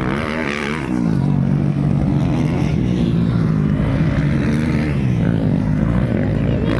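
Motocross dirt bike engines racing, their pitch rising and falling as the riders work the throttle.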